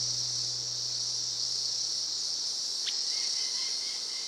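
Forest insects, crickets or similar, trilling in a steady, continuous high-pitched chorus. A single short chirp cuts through about three seconds in.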